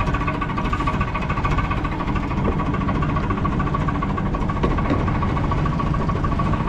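JCB 3C Mk 2 backhoe loader's diesel engine running steadily at a constant speed, its firing a fast, even chatter.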